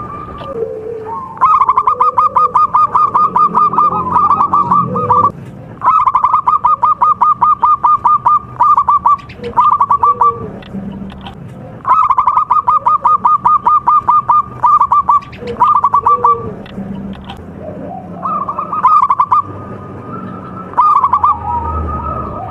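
Perkutut (zebra dove) song: runs of rapid staccato notes lasting a few seconds each, repeated about five times, with softer low coos in between.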